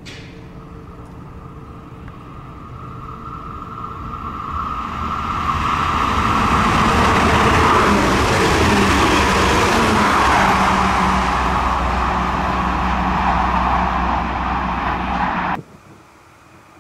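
Diesel multiple-unit passenger train approaching and passing close at speed: a steady whine that swells into loud engine rumble and wheel-on-rail noise, cut off abruptly near the end.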